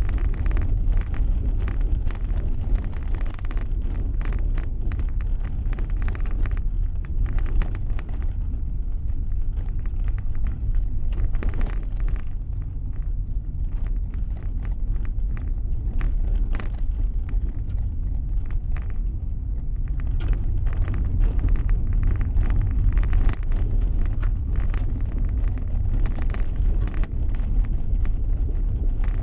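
Road noise inside a moving car: a steady low rumble from the tyres and engine, with many small ticks and crackles throughout.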